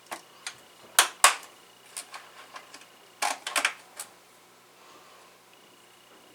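Sharp plastic clicks and knocks of DDR4 server memory sticks being pulled out and pressed into DIMM slots, with the slot latches snapping. Two loud snaps come about a second in and a quick cluster of clicks comes past three seconds.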